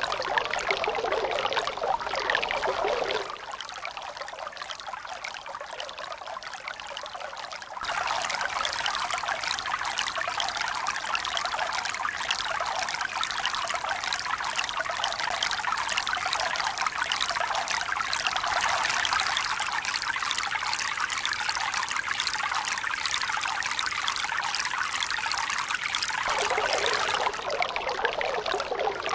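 Steady running water, trickling and pouring, with no swell and break of waves. Its character changes abruptly three times: it drops quieter and duller about 3 seconds in, turns louder and brighter about 8 seconds in, and shifts again near the end, like recordings spliced together.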